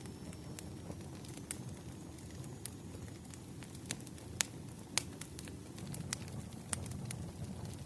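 Wood fire burning: a steady low rumble of flames with sharp crackles and pops at irregular moments, the loudest two about halfway through.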